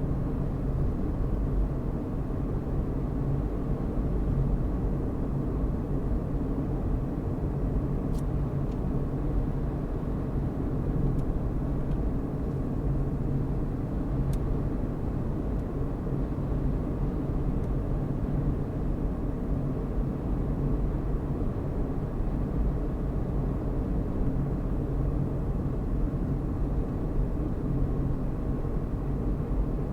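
Car driving at a steady speed: a constant low rumble of engine and tyres on the road.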